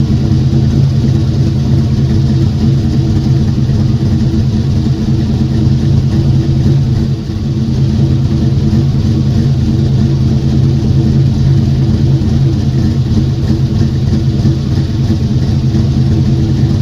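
Car engine running steadily at a constant speed, with one brief dip in level about seven seconds in.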